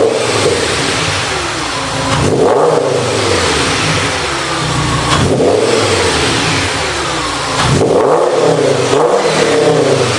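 Audi S8 engine revved several times through an MEC Design sport rear muffler, each rev climbing quickly and falling away.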